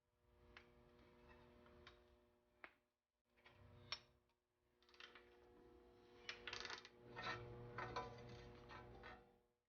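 Faint clicks and light metallic clinks of tools and bicycle parts being handled, in short separate bursts; a few clinks ring briefly.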